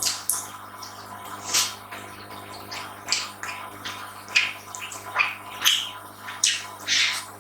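Close-miked eating: wet chewing and lip smacks, a sharp smack every half second to second, over a faint steady electrical hum.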